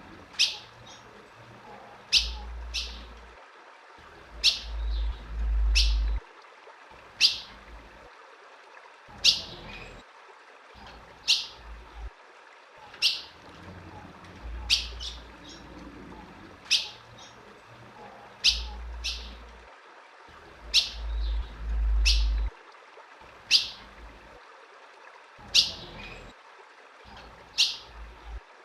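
Female ultramarine grosbeak (azulão) giving sharp single chip calls, each a quick downward-sweeping note, repeated every one to two seconds and sometimes in quick pairs. Low rumbles come and go underneath.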